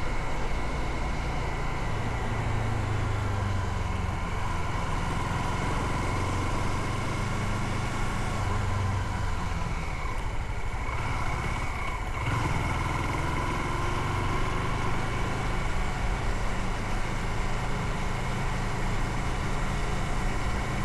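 Motorcycle engine running under way, mixed with wind and road noise. About ten seconds in, the engine note drops briefly, as when easing off, then picks up again.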